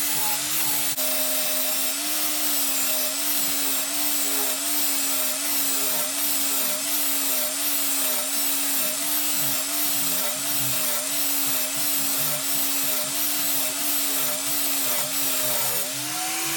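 Electric power tool cutting through a steel power steering bracket: a steady motor hum over a hiss of metal being cut, the pitch dipping and recovering in a regular wobble as it bogs under the cut. Near the end the pitch rises as the tool comes free of the work.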